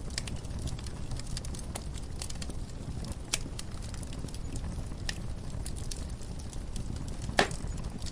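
Wood fire crackling in a fireplace: irregular sharp pops and snaps over a steady low rumble of the flames, with the loudest pop near the end.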